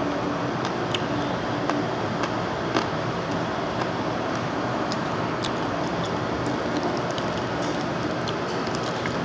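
Chewing and lip smacks while eating a sauce-glazed chicken wing, heard as scattered small clicks over a steady background hiss.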